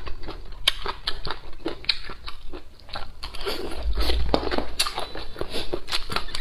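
Close-up chewing of Sichuan-style boneless chicken feet in red chili oil: a quick, irregular run of sharp, moist, crunchy clicks, picked up by a lapel microphone on the eater's collar.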